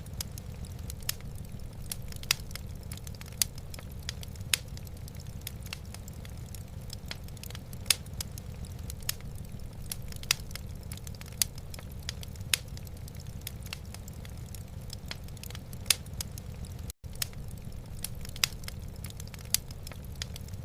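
Wood fire in a fireplace burning steadily with a low rumble, and sharp crackles and pops from the logs every second or so.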